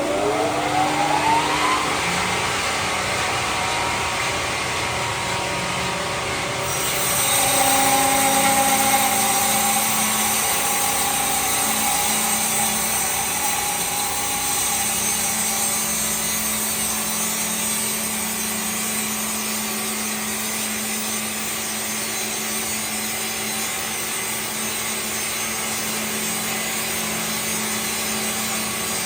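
A power tool working wood: its motor rises in pitch over the first couple of seconds, then runs steadily under load as it cuts.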